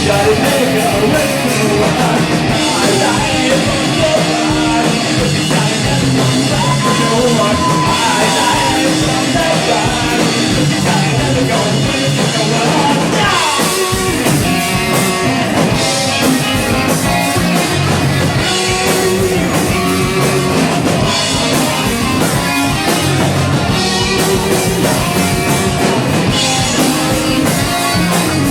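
Rock band playing live: loud, continuous electric guitars and drum kit in a punk-rock style, with some singing.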